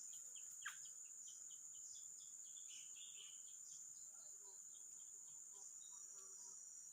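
Faint, steady high-pitched insect drone of crickets or similar insects, with many short bird chirps scattered through it and one quick falling call about a second in.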